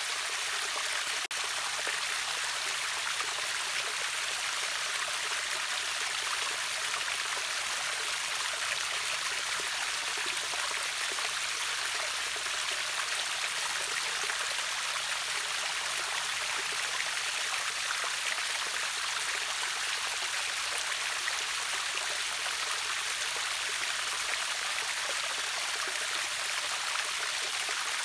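Steady rushing and splashing of a river waterfall, a bright, even hiss of water with little low rumble. One brief click about a second in.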